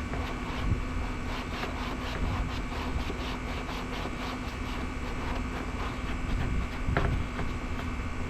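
Scrubbing strokes on a plastic RC boat hull, a few strokes a second, over the steady hum of an air conditioner. A single sharper knock about seven seconds in.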